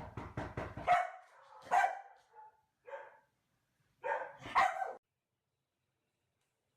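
A dog barking several times in short bursts, falling silent about five seconds in.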